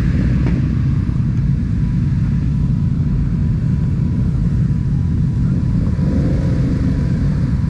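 Steady low rumble of a motorcycle engine running close to the microphone.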